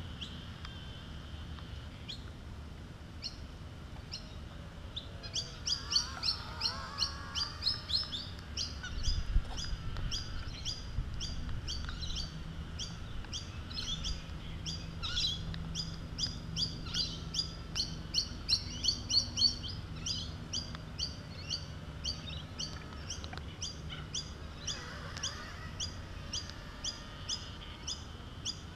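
A bird calling a long run of short, repeated chirps, about three a second, starting a few seconds in and continuing steadily.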